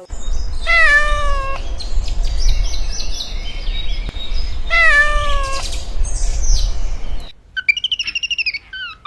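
A cat meowing: two long meows about four seconds apart, over a low background rumble. Near the end the rumble cuts off and quick, high chirping calls take over.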